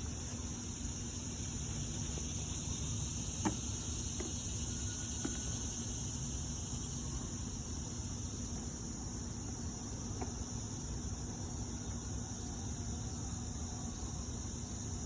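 Steady high-pitched chorus of insects, crickets by their sound, filling the backyard, with a faint knock about three and a half seconds in.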